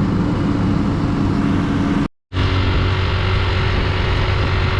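Honda XR150 single-cylinder four-stroke engine running steadily under way, with road and wind noise. The sound cuts out completely for a moment about two seconds in.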